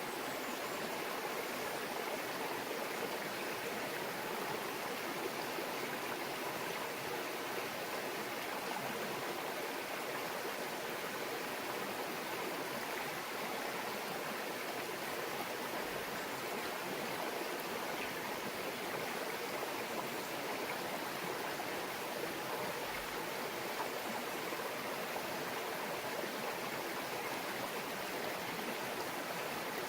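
A small mountain stream babbling over rocks, a steady, even rush of water.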